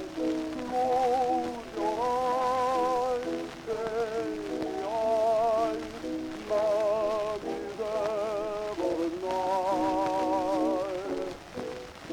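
Orchestral instrumental passage from an old gramophone record: sustained melody notes with a wide vibrato over chordal accompaniment, with the record's surface crackle and hiss underneath.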